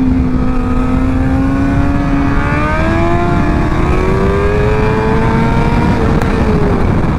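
Motorcycle engine pulling hard under acceleration in one gear, its note climbing slowly for about six seconds and then dropping as the throttle is eased near the end, over steady low wind rumble on the helmet microphone.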